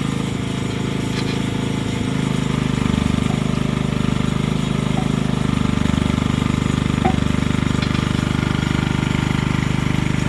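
A machine engine running steadily with a fine, rapid pulse, not the engine under rebuild. A few faint light clicks come about halfway through.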